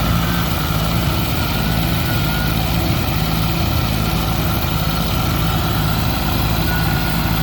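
Riding lawnmower engine running steadily at constant speed.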